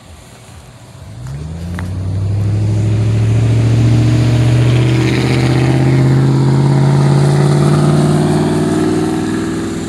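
Car engine pulling away and accelerating gently, a loud steady hum that starts about a second in, rises slowly in pitch, and eases off near the end.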